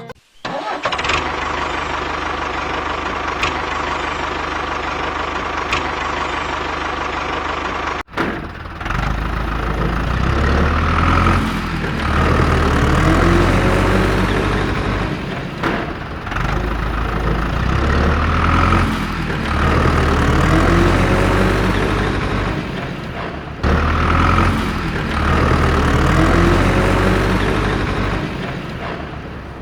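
Mini tractor's motor running steadily with a faint whine. About eight seconds in it cuts to a louder, deeper engine-like rumble that swells and falls in a pattern repeating roughly every seven and a half seconds.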